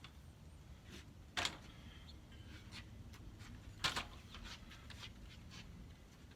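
Knocks and clatter of split firewood being handled: two sharp knocks about two and a half seconds apart, with lighter clicks and taps between.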